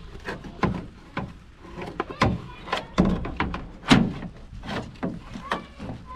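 Irregular knocks and clacks, several a second, from wheel nut covers being handled and washed, the loudest about four seconds in.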